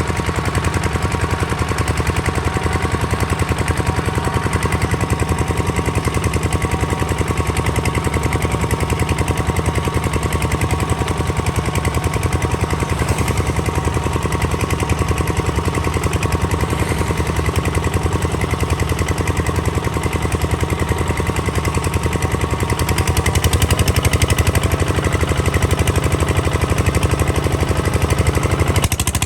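Kubota ZT155 DI single-cylinder diesel engine running, a rapid, steady chugging beat that grows slightly louder about three-quarters of the way through.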